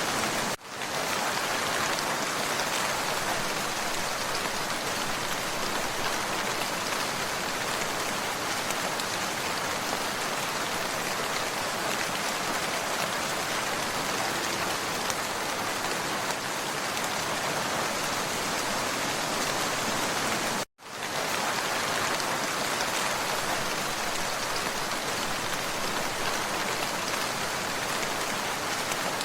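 Steady rain falling, an even, dense hiss of drops. It cuts out for a split second twice, about half a second in and about 21 seconds in.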